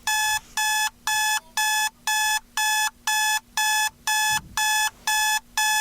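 Electronic alarm beeping steadily, about two short buzzy beeps a second, each on the same pitch.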